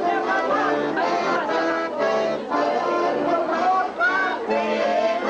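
Accordion playing a tune, with voices singing along.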